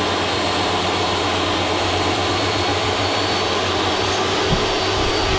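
An electric workshop motor running at a steady speed with a constant whine and rushing air, no change in load.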